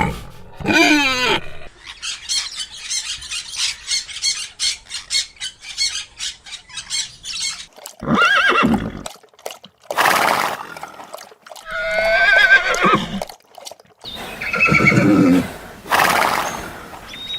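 Horse whinnying: a quavering neigh that falls in pitch, a few seconds of rapid short noisy pulses, then a string of further neighs and calls.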